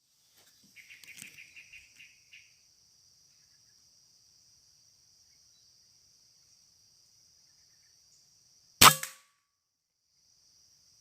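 A single sharp air-rifle shot, about nine seconds in, with a brief ringing tail. It sounds over a steady high insect drone, and a short run of rapid chirps comes near the start.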